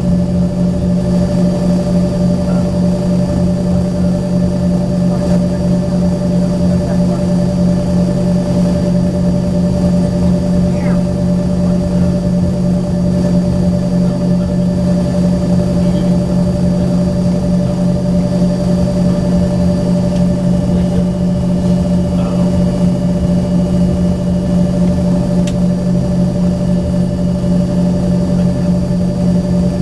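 Steady drone inside the cabin of an Embraer ERJ-135 regional jet: a low hum with a few fixed whining tones above it, holding an even level throughout.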